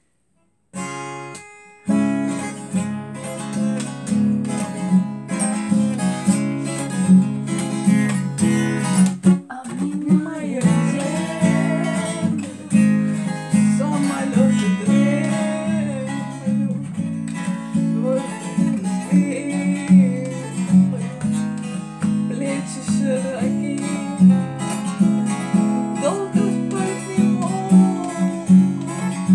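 Acoustic guitar being strummed: one chord just under a second in, then a steady strummed accompaniment from about two seconds. A girl's voice starts singing along about ten seconds in.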